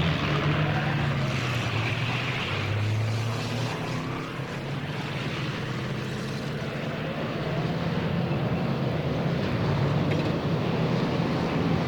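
Several stock car engines running together on the track in a steady low drone. It eases slightly about four seconds in and builds again near the end.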